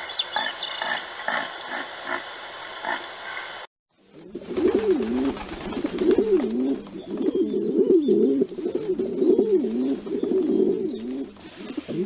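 A flock of feral pigeons cooing, many overlapping coos that rise and fall again and again. Before this, after a short break, comes a quieter rhythmic pulsing sound, about three pulses a second.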